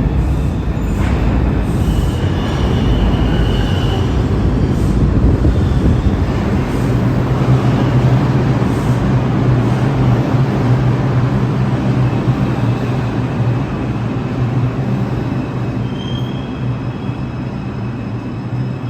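New York City subway train running through the station with a steady rumble of wheels on rail. A low motor hum sets in about a third of the way through, and there are brief high wheel squeals early and again near the end.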